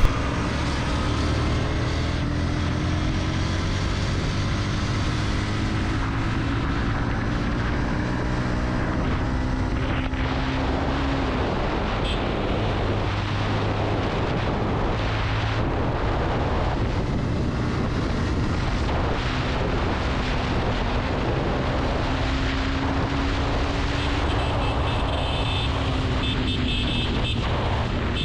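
Motorcycle engine running at road speed under a steady rush of wind noise on the microphone, its pitch slowly rising and falling as the bike holds speed.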